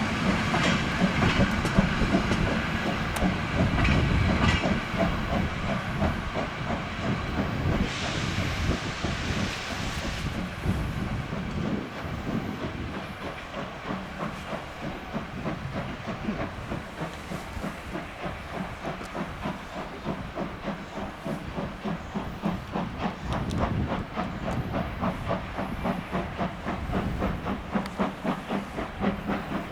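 DB class 23 steam locomotive 23 042 working, its two-cylinder exhaust beating in an even rhythm of a few chuffs a second. A loud burst of steam hiss comes about eight seconds in and lasts a couple of seconds.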